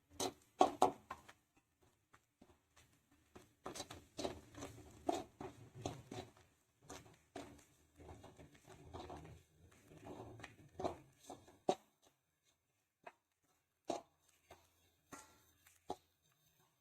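A spoon scraping and knocking against a cooking pan as ground masala paste is added to the fried onions and stirred in. The knocks come irregularly and thin out to a few taps in the last few seconds.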